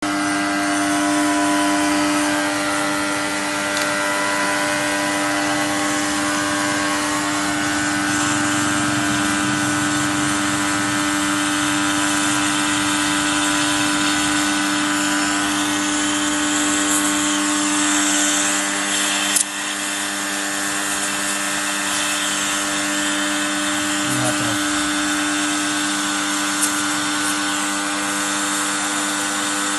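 A steady machine hum made of many fixed tones over a hiss. A sharp click comes a little past the middle, after which the sound runs slightly quieter.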